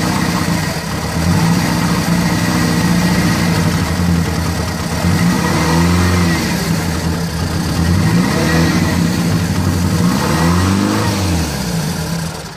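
1974 Toyota Corolla's carburetted four-cylinder engine running on its first cold start after about 25 years unused, blipped up in revs and falling back twice. It stops near the end.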